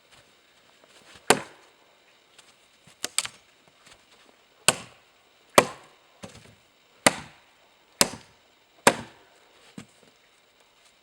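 Axe chopping wood: about nine sharp, separate strokes, roughly one a second, some louder than others.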